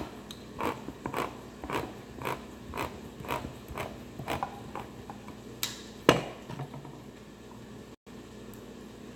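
Regular kitchen knocking, about two strokes a second for roughly four seconds, then a single louder knock about six seconds in.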